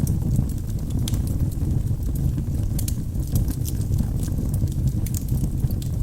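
Wood fire in a fireplace: logs burning with a steady low rumble and frequent sharp crackles and pops.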